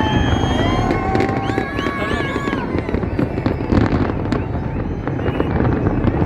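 Fireworks display: many sharp crackles and pops over a steady low rumble, with several high whistling tones, some falling in pitch, through the first half.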